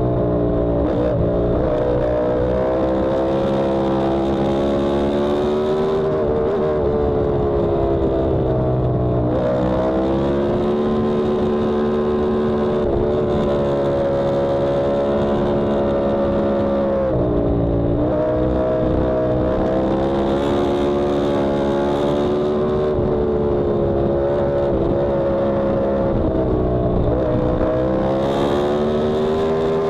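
Yamaha R1M's crossplane inline-four engine running hard on track, its pitch held high and then dropping sharply four times as it brakes and downshifts for corners, climbing again under acceleration after each drop.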